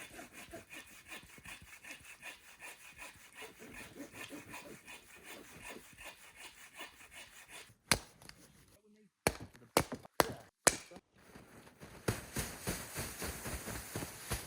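Hand saw cutting through a log of freshly felled tree, rhythmic back-and-forth strokes. Partway through the strokes stop and a few sharp knocks sound, then the sawing starts again, louder.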